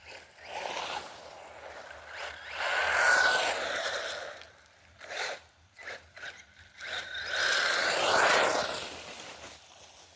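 Electric motor of a WLtoys RC buggy whining as it speeds past twice, each pass swelling and falling away in pitch, with shorter bursts of throttle and crunching of tyres in between.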